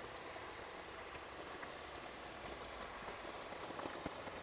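Steady rain falling in a leafy forest, an even hiss with scattered small drop ticks.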